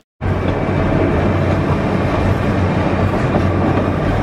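Oigawa Railway Ikawa Line passenger train running along the track, heard from on board: a steady rumble of wheels on rails with a low hum. It starts suddenly after a split-second silent cut at the very beginning.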